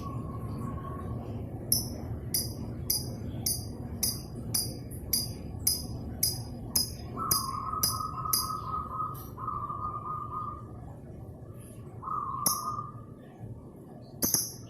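Lovebird calls: a run of short, high chirps about two a second, joined about seven seconds in by a few long, steady whistled notes.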